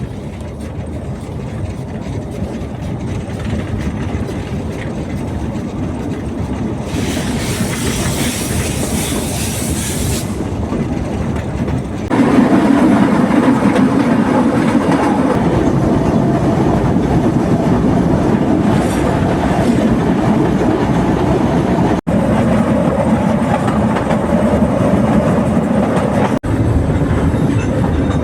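Narrow-gauge forest railway train running, heard from on board: a steady rumble with wheel clatter, growing louder. A hiss lasts about three seconds near the start, and the sound jumps suddenly louder about twelve seconds in.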